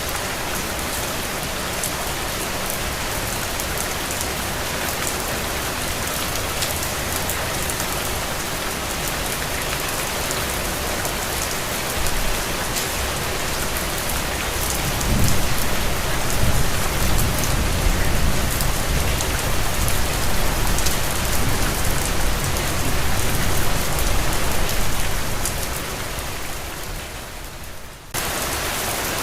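Steady rain falling. From about halfway through, a long low rumble of distant thunder swells in and fades away, and near the end the sound dips and then cuts back abruptly to the same steady rain.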